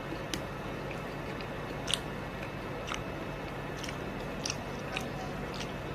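Close-miked mukbang eating sounds: a person chewing a mouthful of beef oxtail soup. Scattered short, sharp mouth clicks run over a steady background hiss, the sharpest about two seconds in.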